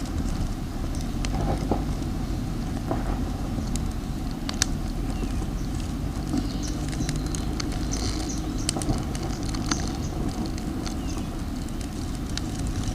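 Wood campfire crackling: scattered sharp pops and ticks over a steady low rumble.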